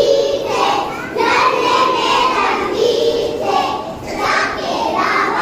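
A group of young children's voices, continuous and loud.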